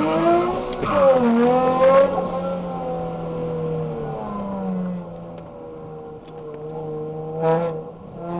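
Turbocharged 2010 Nissan 370Z's 3.7-litre V6 heard from inside the cabin under hard autocross driving. The revs climb, dip sharply about a second in and climb again, then hold steady and ease off around five seconds in. A short burst of throttle comes near the end.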